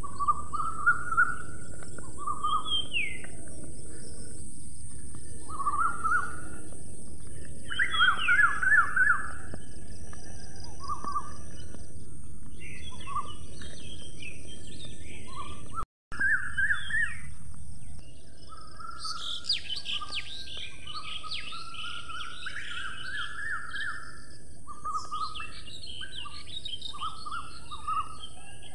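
Several birds singing and calling: repeated short chirps and quick trills, busiest in the second half, over a steady low rumble of field noise. The sound cuts out for an instant about halfway through.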